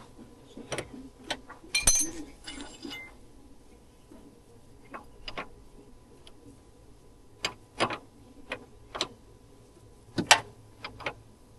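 Scattered metallic clicks and clinks of hand tools on steering-line fittings and metal parts, with one louder ringing clink about two seconds in.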